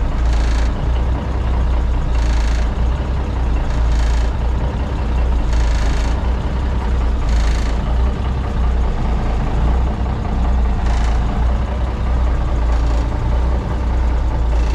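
Cummins diesel engine of an old Brockway truck idling steadily, with short noisy bursts about every two seconds over the engine.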